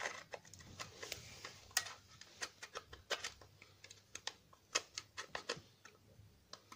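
Metal battery contacts in a desk lamp's battery compartment being scraped clean of corrosion from leaked alkaline batteries: irregular small scratches and clicks, several a second.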